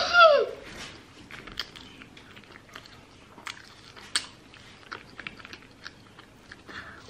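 A child chewing and biting McDonald's chicken nuggets close to the microphone: scattered soft, wet mouth clicks and crackles, with one sharper click about four seconds in. At the very start a child's short, high-pitched vocal sound falls away in pitch.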